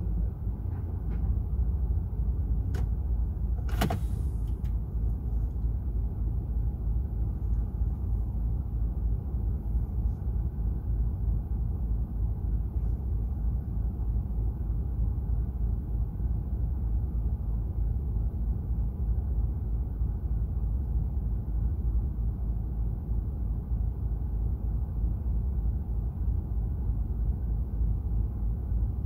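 DAF XF 480 truck's diesel engine and running gear giving a steady low rumble, with a sharp click about four seconds in.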